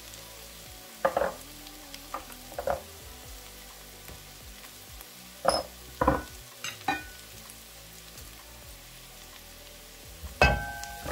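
Browned onions and spices sizzling steadily in oil in a nonstick pot, with a spatula stirring and knocking against the pot several times. The loudest knock comes near the end.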